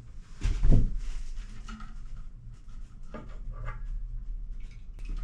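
Handling noises from the tankless water heater's replacement control board and wiring: clicks, knocks and rustling, with a louder knock about half a second in and another around three seconds.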